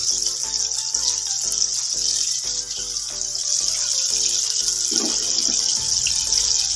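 Chicken pieces deep-frying in a pan of oil: a steady sizzling hiss, with light background music over it.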